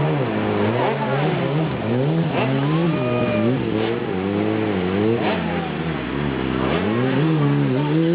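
Stunt motorcycle engine revved up and down again and again, its pitch rising and falling every second or so.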